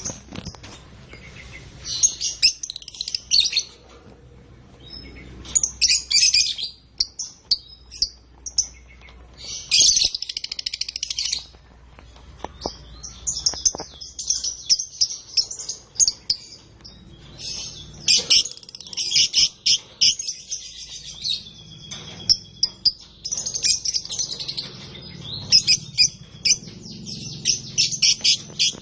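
Domestic canaries singing: fast, high trills and warbles, first in separate bursts a few seconds apart, then almost without pause through the second half.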